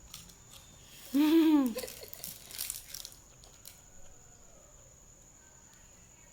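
A single drawn-out vocal call, its pitch rising then falling, followed by a second or so of soft crackling and rustling.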